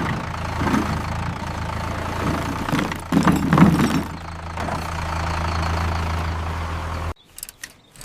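An engine idling with a steady low hum, with louder stretches near the start and a little after three seconds in. The hum cuts off suddenly about seven seconds in.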